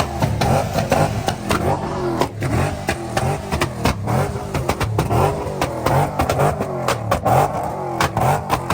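Car engine revving up and down repeatedly, with many sharp cracks throughout.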